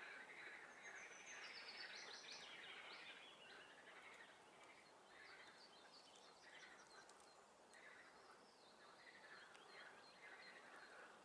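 Faint chorus of swamp frogs calling in repeated bouts, with songbirds singing over it, including a high, falling trill about a second in.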